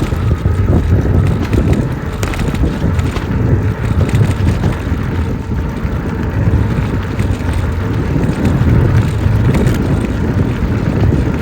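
Steady low rush of wind buffeting the microphone, mixed with tyre noise from a folding electric bike being ridden along a trail.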